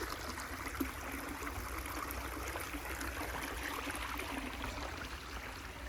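A small creek running over rocks: steady trickling and splashing of shallow water, with a low steady rumble underneath.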